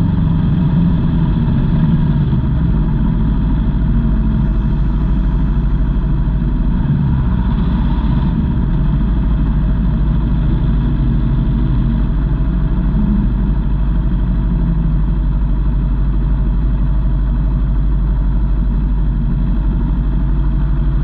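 Aprilia Tuono V4 motorcycle's V4 engine running steadily at an even speed, heard from a camera mounted on the bike.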